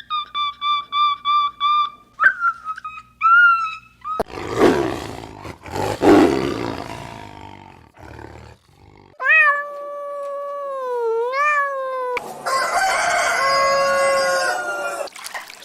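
A run of different animal calls one after another: quick repeated chirps, then a loud rough roar, then a long smooth call that dips and rises in pitch, then a harsh, many-toned call near the end.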